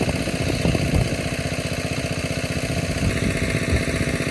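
The engine of a water pump draining a pond, running steadily with a rapid, even beat.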